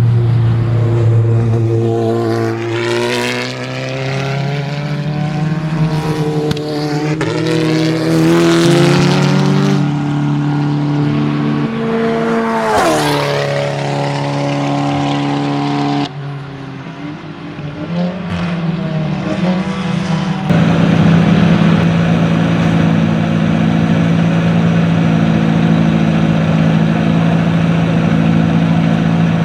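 Racing touring car engines revving hard as several cars accelerate and pass, one passing with a falling pitch about halfway through. The sound changes abruptly twice, and in the last third a single engine holds a steady note.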